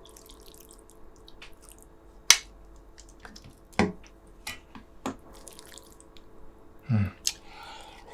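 Close-miked eating of braised pork ribs with kimchi: scattered wet mouth clicks and lip smacks while chewing, the loudest about two seconds in, with a brief low 'mm' about seven seconds in.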